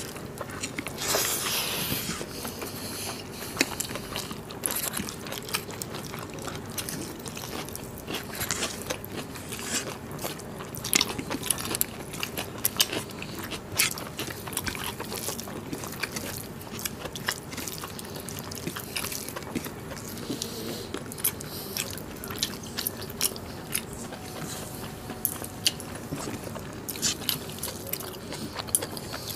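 Close-miked mouth sounds of two people eating mutton curry and rice by hand: wet chewing and lip-smacking that come as a steady run of short clicks.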